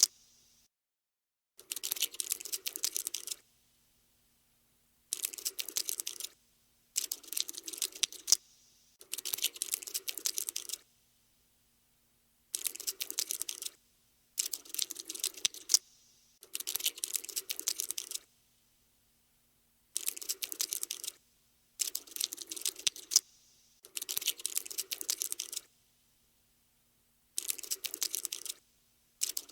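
Cockroach scuttling sound effect: bursts of rapid, dry clicking and skittering, each lasting one to two seconds, about a dozen of them with short silent pauses in between.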